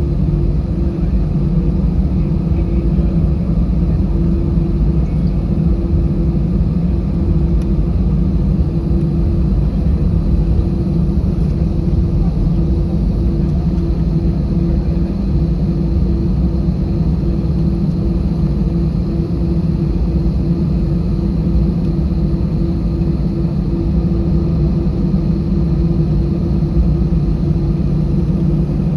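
Steady cabin noise inside an Airbus A320 taxiing on the ground: a deep, even rumble from the engines and rolling gear, with a steady hum tone over it.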